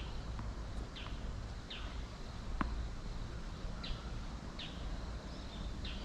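A bird calling repeatedly, short falling chirps about once a second, over the low rumble of wind on the microphone.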